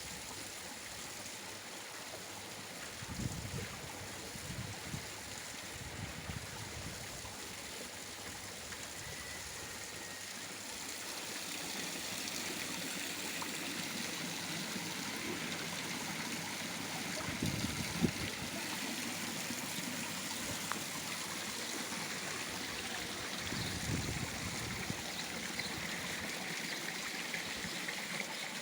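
Water running steadily over the rocks of a garden waterfall and splashing into a koi pond, a continuous flowing and trickling that grows a little louder partway through. A few soft low thumps come through now and then.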